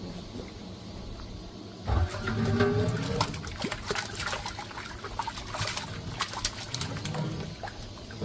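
Eel broth being scooped out of a gamasot cauldron and poured, splashing and trickling, with clinks and knocks of the ladle. It starts suddenly about two seconds in.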